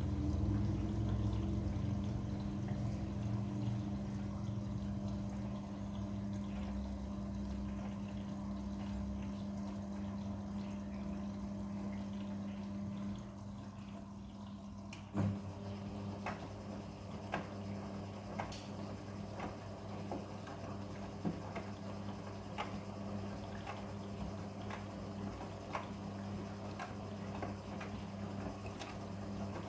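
Midea front-loading washing machine running a quick wash with a blanket inside: a steady hum with water sloshing. About halfway there is a sharp click, after which soft splashes come roughly once a second.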